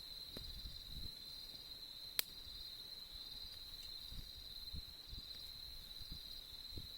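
Crickets trilling steadily on one high note, over the soft crackle of a wood campfire, with one sharp pop from the fire a little over two seconds in.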